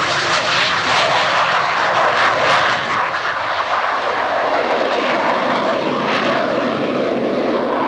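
Twin-engine F/A-18 Hornet jet at full power during a low takeoff pass, a loud steady jet noise with sharp crackles. It is loudest in the first three seconds and eases slightly after.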